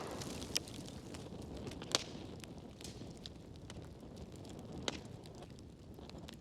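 Wood fire crackling in a fireplace: irregular small ticks over a soft low rustle, with a few sharper pops, the loudest about two seconds in.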